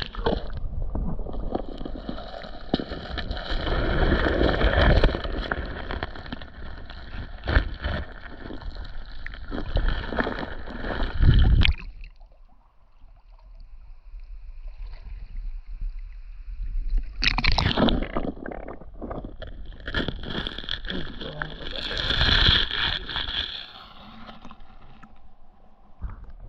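Creek water splashing and sloshing, with scattered sharp knocks, in two spells with a quieter stretch in the middle.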